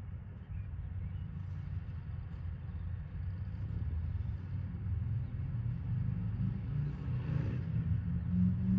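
Low, steady outdoor rumble that grows slightly louder toward the end, with no bird calls standing out.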